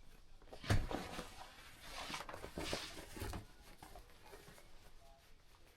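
Cloth rustling as clean laundry is handled and folded: a brief rustle about a second in, then a longer stretch of rustling from about two to three and a half seconds in, dying away near the end.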